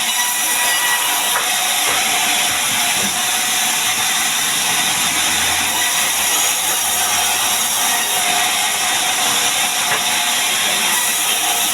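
Power saw running steadily as it cuts through mahogany timber, an even, unbroken noise with no pauses.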